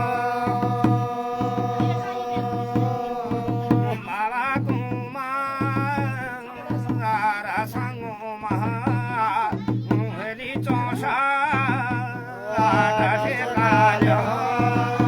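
Jagar devotional folk song: a man's voice sings wavering, ornamented lines over a steady low drum beat. Held instrumental notes carry the opening, and the singing comes in about four seconds in.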